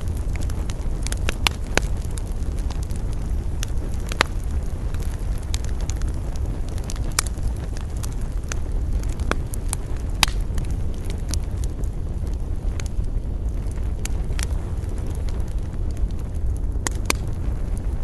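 Wood campfire crackling, with irregular sharp pops and snaps over a steady low rumble of wind.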